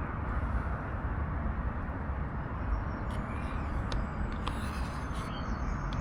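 Steady low rumble of distant road traffic, with a few faint clicks about halfway through.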